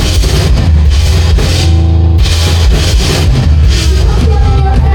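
Live rock band playing an instrumental stretch between sung lines: loud guitar, bass and drum kit. The cymbals drop out briefly about two seconds in.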